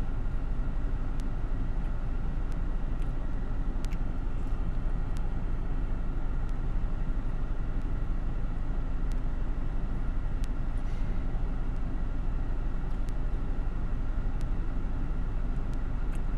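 Steady low rumble with a hiss over it inside a car's cabin, typical of the engine idling with the ventilation fan running, with a few faint clicks.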